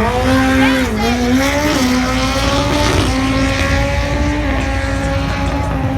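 Racing motorcycle engine revving up sharply, then running at high, nearly steady revs, with a brief dip and recovery in pitch about a second in.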